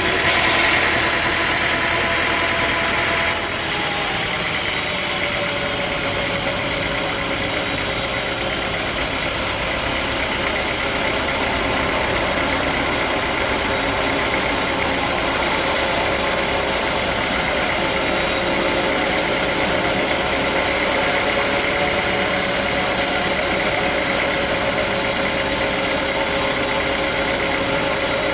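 Sawmill machinery running steadily, with a steady engine-like drone that dips slightly in pitch a few seconds in.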